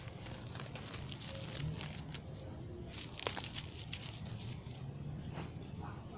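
Rustling and crackling, with scattered short clicks over a steady low hum.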